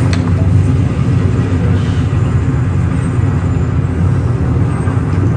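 Loud, steady low rumble, with a brief click right at the start.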